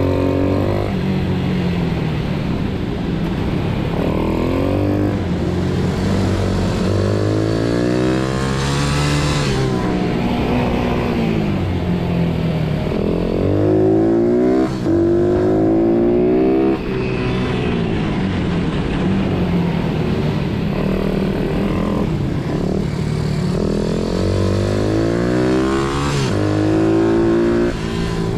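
Pitbike engines revving hard through the gears: the pitch climbs in steps, drops back and climbs again several times, over a steadier lower engine note.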